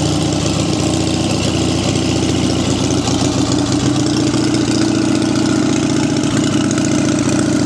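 1946 JAP 55 stationary petrol engine running steadily at idle.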